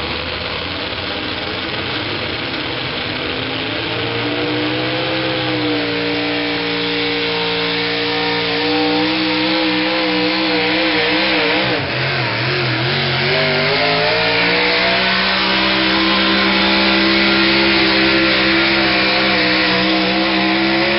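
Pulling truck's engine at full throttle as it hauls the sled. The pitch climbs over the first few seconds and holds high, wavers and dips about halfway through, then climbs again and holds until the throttle comes off at the very end.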